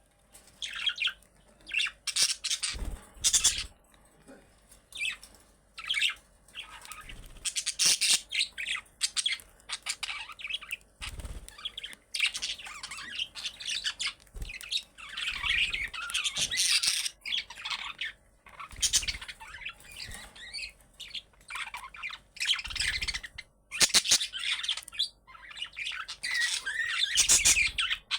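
Budgerigars chattering, with continual chirps and squawks coming in quick irregular bursts.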